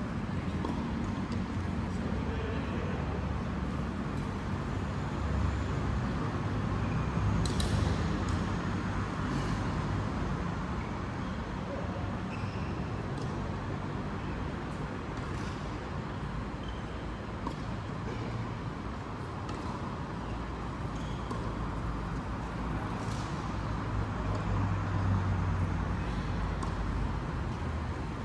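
Steady low rumble like passing road traffic, with scattered short, sharp knocks, a few louder ones about a third of the way in and again near the end.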